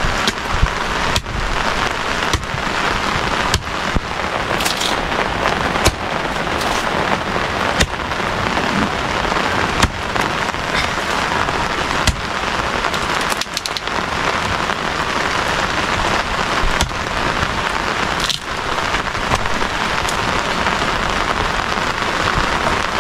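Steady rain falling on a tarpaulin shelter overhead, with sharp taps every second or two.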